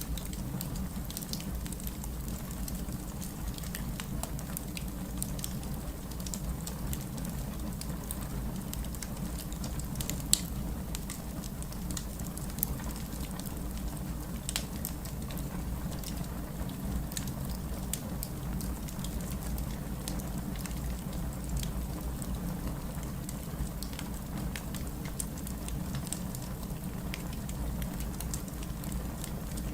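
Heavy rain falling steadily with a wood fire crackling: a constant rush of rain under scattered sharp pops and snaps, two of them louder, a couple of seconds apart, near the middle.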